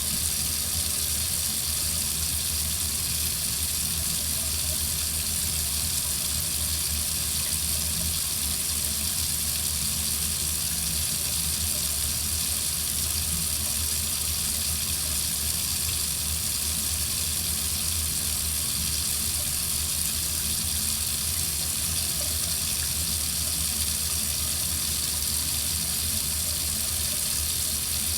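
Water running steadily from a sink faucet, an even rushing hiss that does not change.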